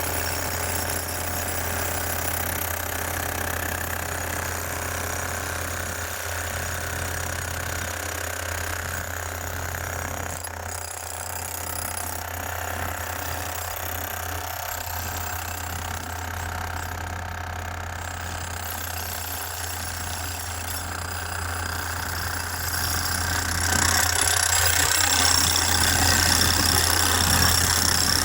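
Road-repair machinery running steadily, a loud mechanical din with a low hum underneath; it grows louder near the end.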